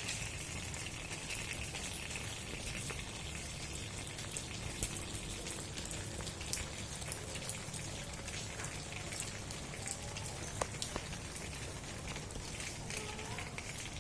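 Steady rain falling on a large tent umbrella, with many separate drops tapping on it.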